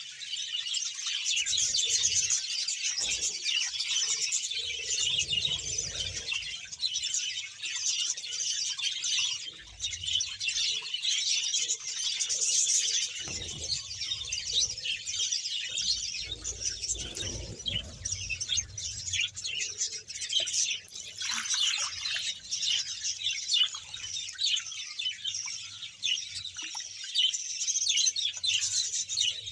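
A colony of about a hundred pairs of budgerigars chattering and chirping continuously, many birds calling at once.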